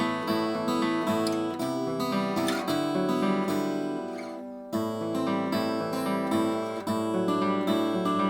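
Acoustic guitar being played: a run of picked notes and chords. About four and a half seconds in, a note rings out and fades, then the playing starts again with a sharp attack.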